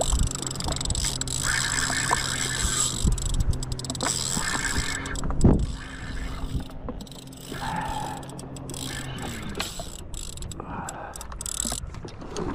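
Fishing reel being cranked in repeated turns while a fish is played from a jet ski, over steady wind and water hiss, with one sharper knock about five seconds in.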